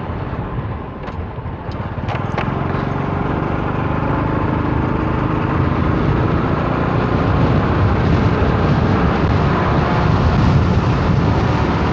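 Motorcycle engine running on the move, mixed with strong storm wind rushing over the microphone; the noise grows steadily louder, with a few light clicks in the first couple of seconds.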